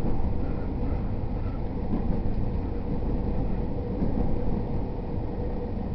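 Interior sound of a JR East E231 series 0 commuter train: a steady low rumble from the wheels and running gear on the rails, with a faint steady hum.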